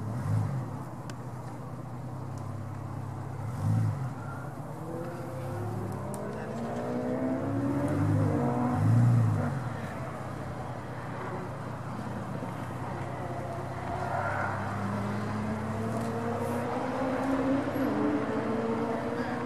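Jeep Grand Cherokee engine revving in short bursts while crawling off-road through mud, the biggest revs about eight to nine seconds in, then a longer, slowly rising engine note near the end as it pulls forward.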